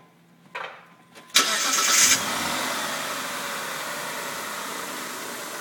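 2004 Mitsubishi Diamante's 3.5-litre V6 being started: a short burst of cranking about a second and a half in, catching at once and settling into a steady idle that eases slightly. The engine runs with its alternator not charging, the generator relay and its fuses pulled.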